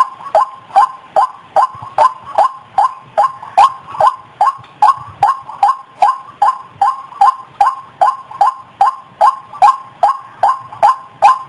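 White-breasted waterhen (ruak-ruak) call played as a bird lure: one short call repeated without a break, about two and a half times a second.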